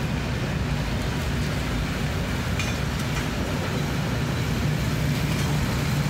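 Vintage passenger coaches rolling past on the rails with a steady low rumble, a diesel locomotive at the rear of the train helping to push it.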